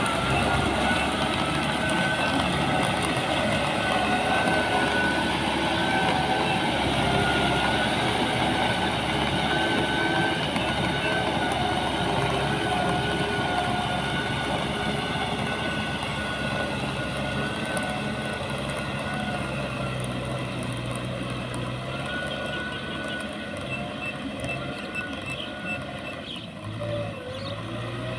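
Diesel engine of heavy farm machinery running steadily under a wavering high whine, slowly growing quieter.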